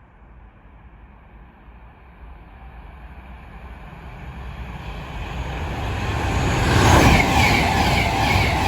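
A train passing through a station at speed: the rumble grows steadily louder for several seconds as it approaches, then stays loud as it goes by, with a regular clatter of wheels about twice a second.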